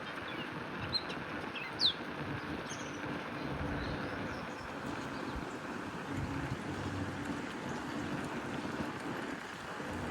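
A few short bird chirps in the first two seconds over steady outdoor noise from the bicycle ride. A low steady hum sets in after about three seconds.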